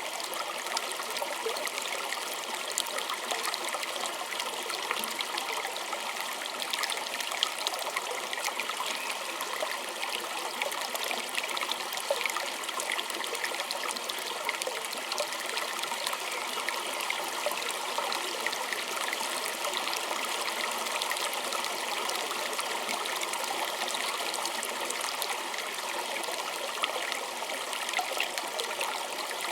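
Small shallow stream trickling and babbling over stones: a steady, bright rush of water flecked with countless tiny splashes and drips, with little low rumble.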